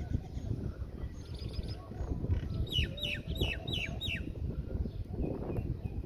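A bird chirping: a short high twitter, then a run of five quick chirps, each sliding downward in pitch, about three seconds in. Steady low background rumble underneath.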